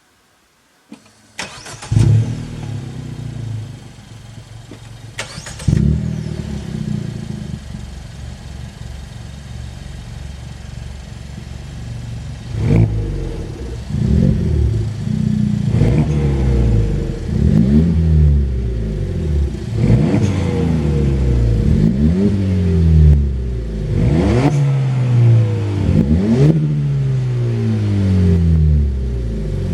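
Suzuki Swift Sport ZC33S 1.4-litre turbo four-cylinder with an aftermarket sports muffler, started about a second in and then free-revved while stationary. Each rev blip falls back toward idle; after a couple of isolated revs, the blips come one after another every second or two.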